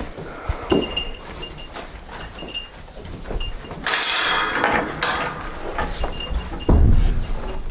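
A goat bleats raspily about four seconds in. Around it come short high clinks or chirps and knocks of work on the stall, with a heavy thump near the end.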